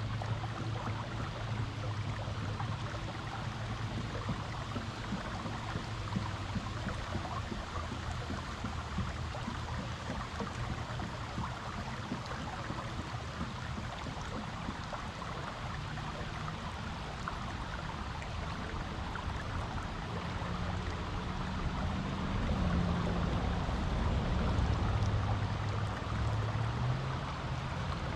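Creek water flowing steadily over rocks, a continuous rushing sound. Underneath it runs a low hum that grows louder and wavers in pitch over the last several seconds.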